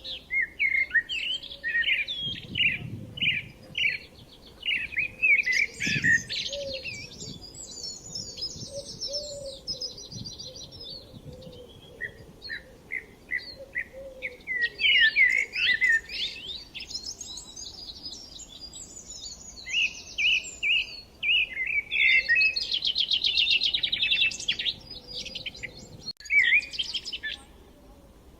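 Small songbirds chirping and twittering in bursts of quick, high notes and fast trills, pausing briefly now and then.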